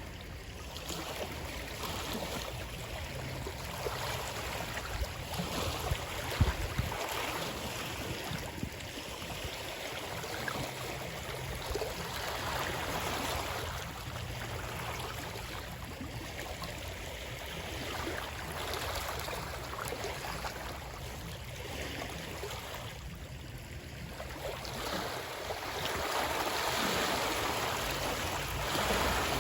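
Moving water, a continuous wash that swells and eases every few seconds, with a low rumble underneath.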